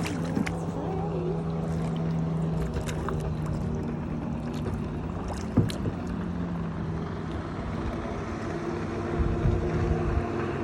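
Kayak paddling: paddles working the water, with a few knocks of paddle against the hull, over a steady low motor hum.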